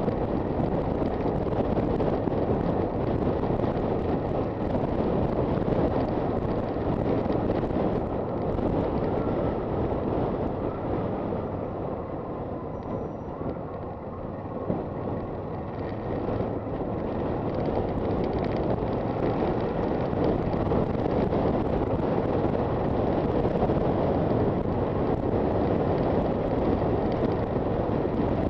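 Wind rushing over the microphone mixed with road and engine noise from a Honda FT400 motorcycle riding along at speed; the noise eases slightly about halfway through, then picks up again.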